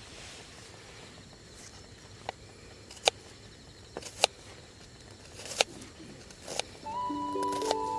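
Half a dozen sharp, separate taps at uneven intervals over a faint outdoor background, with the loudest at about three, four and five and a half seconds in. Background music with held plucked notes begins near the end.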